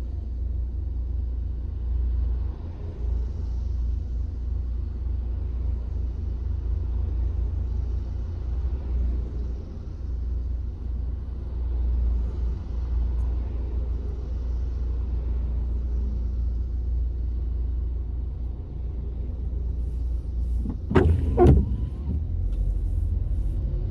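Steady low road rumble from inside a moving car's cabin. A couple of short sharp sounds break through about three seconds before the end.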